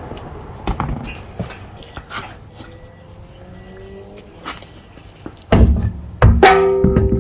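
Light clicks and knocks, then two heavy thuds near the end, the second leaving a ringing metallic tone. This is the sound of a road wheel being hung on the hub and its wheel bolts being fitted by hand.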